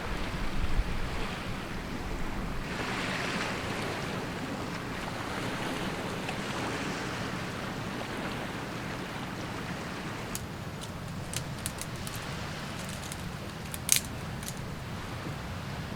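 Surf washing on a beach, a steady rush that swells now and then, with wind buffeting the microphone early on. From about ten seconds in come a few short sharp clicks, one louder near the end.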